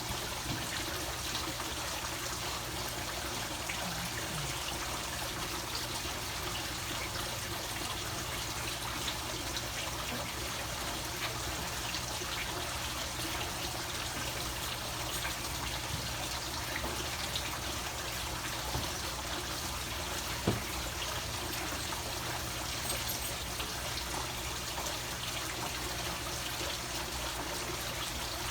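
Steady trickle of running water, with a few faint ticks and one short knock about two-thirds of the way through.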